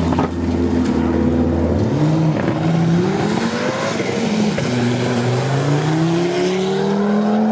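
Rally car engine under hard acceleration. Its pitch climbs and drops back several times as it shifts up through the gears.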